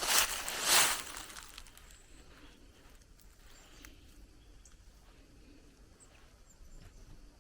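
Footsteps on a forest trail, two steps in the first second, then they stop, leaving faint outdoor quiet with a few small ticks and short high chirps.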